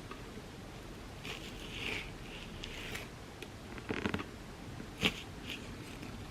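Close-up handling sounds of a mukbang meal: short scrapes and crackles, a rattling scrape about four seconds in, and one sharp click about five seconds in.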